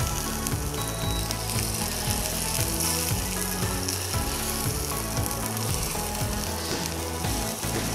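Chilli spice paste with beef sizzling as it fries in a nonstick pan, stirred with a silicone spatula, over background music.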